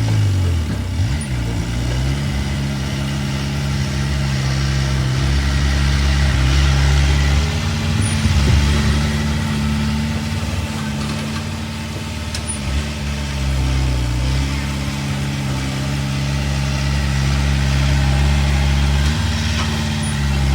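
Heavy diesel engine of earthmoving machinery running steadily under working load. Its pitch sags and recovers in the first two seconds, with smaller dips later as the load changes.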